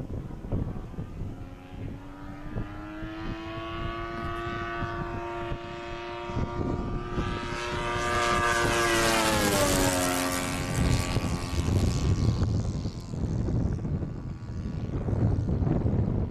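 A YS 110 supercharged four-stroke model-airplane engine turning a two-blade propeller as the RC plane flies by: the engine note grows louder as it approaches, drops sharply in pitch as it passes about ten seconds in, then fades away. Gusty wind buffets the microphone throughout.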